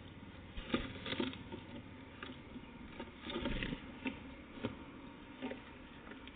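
Irregular light taps and clicks, with a short rustle about three seconds in, over a low steady hiss.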